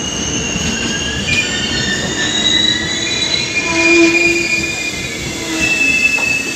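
Passenger train's coaches rolling past a station platform, their steel wheels squealing against the rails in several high, thin tones that come and go over a steady low rumble.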